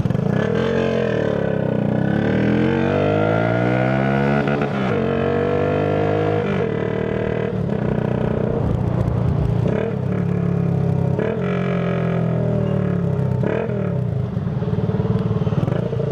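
Tuned Shineray Phoenix 50cc motorcycle engine accelerating through the gears. Its pitch climbs for several seconds, drops at a shift, climbs again and drops again, then holds at cruising speed with small rises and dips.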